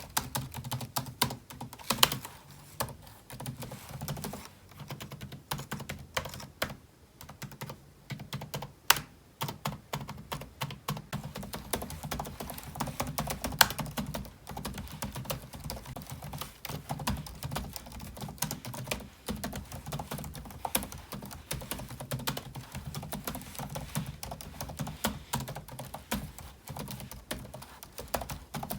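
Typing on a computer keyboard: a quick, steady stream of key clacks, with a brief pause about seven seconds in.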